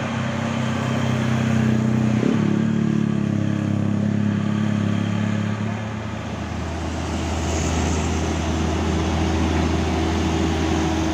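Diesel engine of a heavily loaded truck labouring steadily up a steep grade. Its note changes abruptly about two seconds in, then settles into a lower steady drone.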